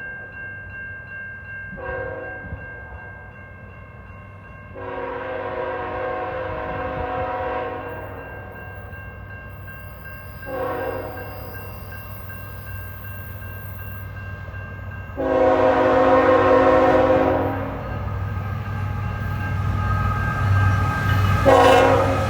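Lead diesel locomotive of a freight train sounding its multi-chime horn in a series of long and short blasts, a grade-crossing warning, with another blast starting near the end. The low rumble of the approaching locomotive grows louder under the horn.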